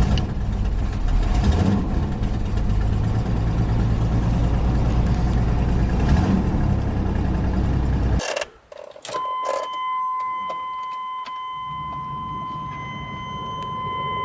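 Chevy Blazer engine idling just after a cold start on a near-freezing day. It cuts off abruptly about eight seconds in, followed by a few clicks, and then the Blazer's steady electronic warning chime sounds as one held high tone.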